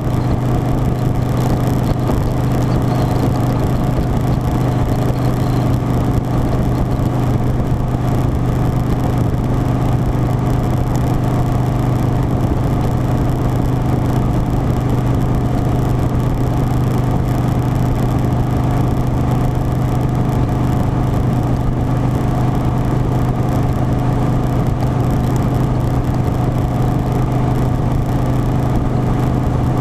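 Harley-Davidson Softail Standard V-twin engine running at a steady, even pitch while cruising, with no change in engine speed.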